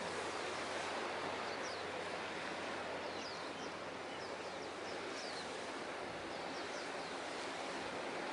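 Steady harbourside wind and water noise, with a faint low hum and a scatter of short, high chirps through the middle.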